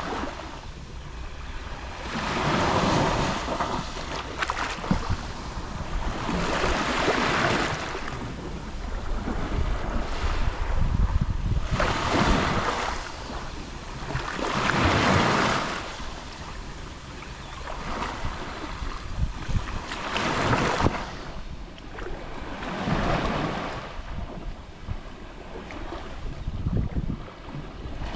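Gentle sea waves lapping on the shore, washing in and out in repeated surges every three to four seconds, with a low rumble of wind on the microphone underneath.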